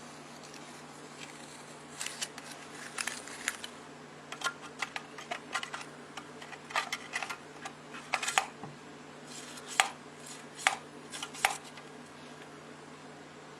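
Irregular light clicks and taps of small objects handled on a hard surface, over a steady low hum. They come in clusters from about two seconds in until near the end.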